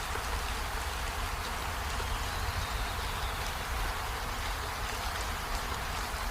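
Steady rainfall: an even, continuous hiss of rain with scattered faint drop ticks over a low rumble.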